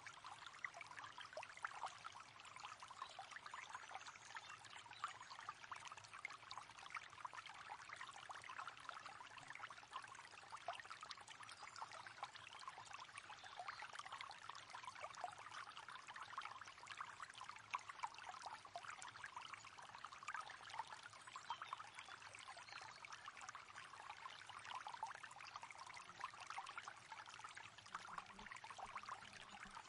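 River water flowing steadily, a continuous quiet babbling and splashing rush.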